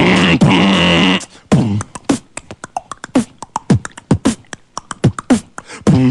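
Beatboxing: a held, humming bass line with a high whistle-like tone over it for about a second, then a run of sharp vocal drum hits and clicks, some dropping quickly in pitch. A held bass line comes back near the end.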